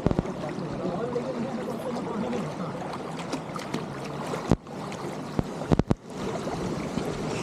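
Steady rushing water from a stream or waterfall, with a few sharp knocks partway through.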